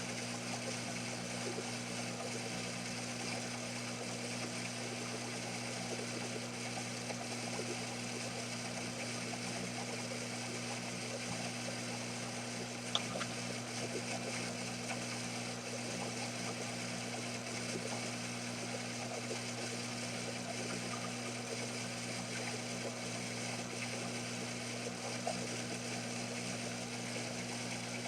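Small hobby lathe running steadily under power feed on a long cut, its motor giving a constant hum over a steady hiss, with one sharp tick about halfway through.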